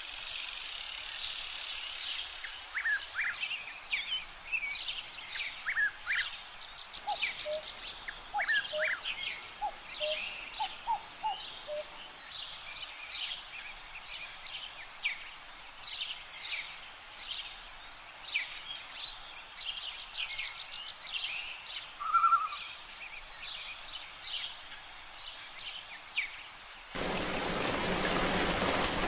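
A chorus of many birds chirping and singing, dense short high calls repeating throughout, with a few lower calls in the first half. It opens with a steady hiss that stops after about three seconds. Near the end the birds give way abruptly to the steady hiss of rain.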